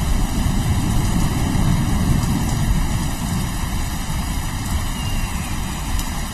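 Steady rain with a deep, continuous rumble of rolling thunder, the rumble easing slightly through the latter half.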